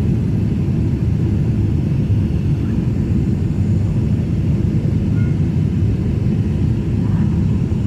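Steady low rumble of a Boeing 767-300ER airliner heard from inside the passenger cabin: engine and airflow noise, even and unbroken.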